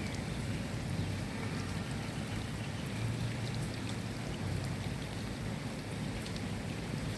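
Steady rain falling, with scattered individual drops ticking over the even hiss. A low rumble runs underneath and swells about three seconds in.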